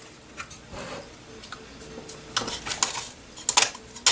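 Small hard objects clicking and clattering against a work surface as tools and parts are handled. There are a few light clicks, then a cluster of sharper ones in the second half.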